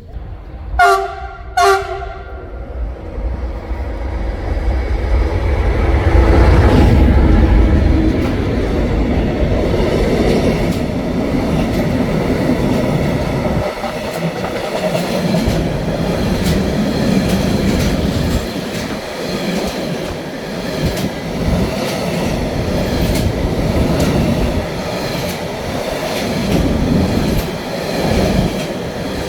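Train horn sounding two short blasts about a second in, then the train passing: its rumble builds to a peak a few seconds later and carries on with regular clicking of wheels over rail joints.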